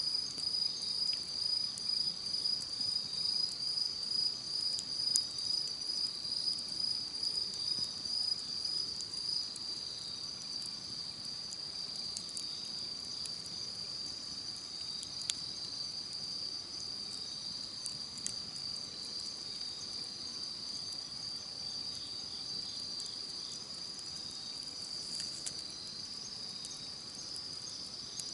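Crickets chirping in a steady high chorus, pulsing evenly for the first several seconds and then more even, with a few sparse faint pops from a campfire.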